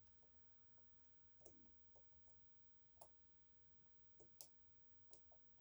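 Faint, irregular metallic clicks, four or so spread over a few seconds, from a lock pick and tensioner working the sliders inside an EVVA 3KS high-security lock during picking.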